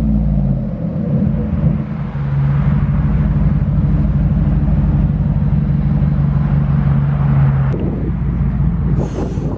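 2011 Chevy Tahoe's 5.3 V8 running steadily at idle through straight-through exhaust with the mufflers deleted. A sharp click comes near the end, followed by a brief hiss.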